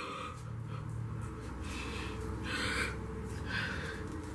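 A woman breathing in short, sharp gasps and snorts through the nose, about four breaths a second or so apart, in pain while peeling a peel-off face mask off her skin.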